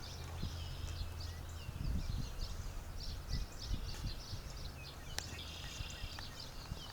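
Several small birds chirping and trilling in a busy morning chorus, over a low steady rumble.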